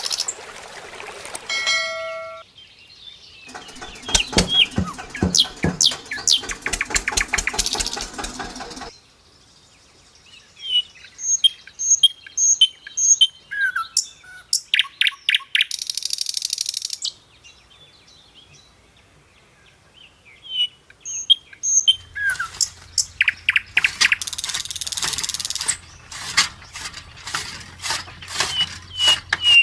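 Birds chirping with short high calls, mixed with runs of rapid clicking, in stretches that change abruptly.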